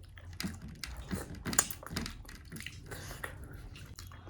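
Close-mic eating sounds of someone chewing momos: irregular wet clicks and smacks of the mouth, several a second.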